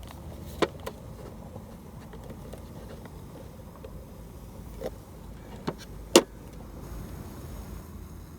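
A few sharp knocks, the loudest about six seconds in, over a steady low rumble.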